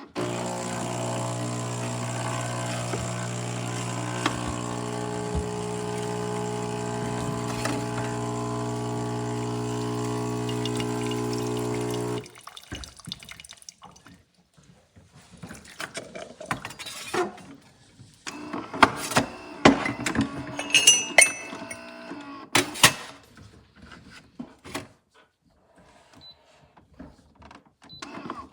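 Philips 3200 Series automatic espresso machine's pump running with a steady electric hum for about twelve seconds, then cutting off abruptly. Scattered clicks, knocks and light clinks follow.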